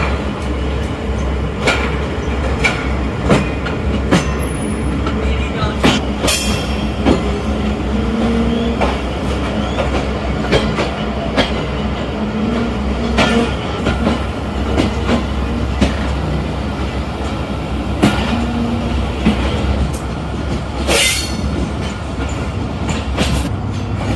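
Express passenger train rolling slowly through station pointwork, its wheels clacking irregularly over rail joints and crossings above a steady low rumble, with a few brief wheel squeals.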